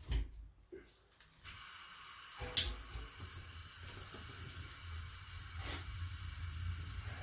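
Portable fuel-burning space heater being started. A steady gas hiss comes on about a second and a half in. A sharp click follows about a second later as it lights. The burner then runs with a steady hiss and a low rumble.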